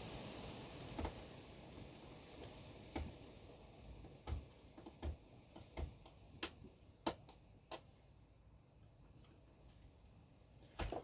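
Light, irregular clicks and taps, about ten of them, from small model parts being handled.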